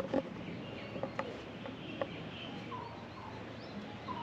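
Birds chirping in short, repeated calls over a steady outdoor background, with a few light knocks in the first two seconds.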